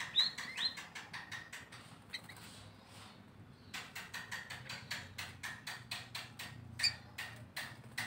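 Small birds calling in garden undergrowth: a fast run of sharp ticks, about seven a second, that breaks off for a second and a half in the middle, with two short rising chirps near the start.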